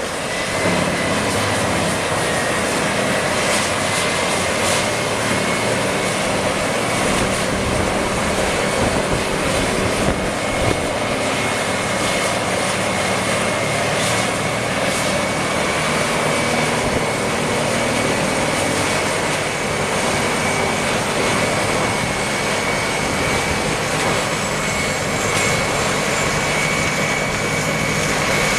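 A heavy wood-processing machine running steadily under load, with a constant high whine and a few short knocks scattered through it.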